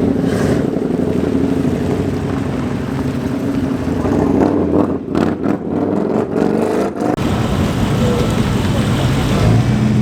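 A car engine running, revved up around the middle.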